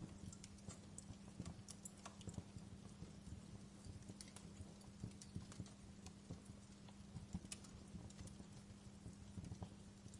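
Wood fire crackling in a fireplace: irregular sharp snaps and pops over a steady low hum.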